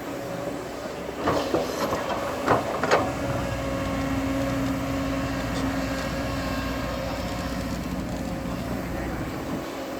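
Bulldozer diesel engine running under work, with three sharp metal clanks in the first three seconds, then settling into a steadier engine note.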